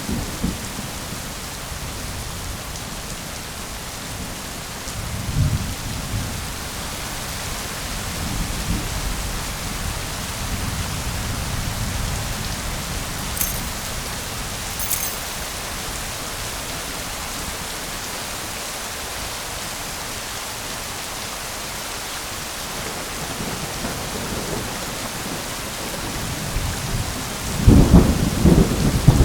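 Steady heavy rain with rolling thunder: low rumbles about five seconds in and again around ten seconds, then a loud, close crackling thunderclap near the end.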